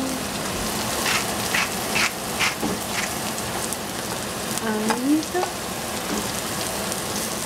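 Cauliflower and shiitake mushrooms sizzling steadily in oil in a saucepan, with a run of five short, sharp sounds about half a second apart between one and three seconds in.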